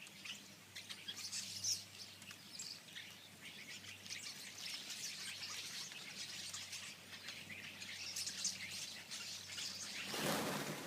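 A large number of birds chirping at once, a dense chorus of overlapping high chirps. Near the end there is a brief, louder rush of noise.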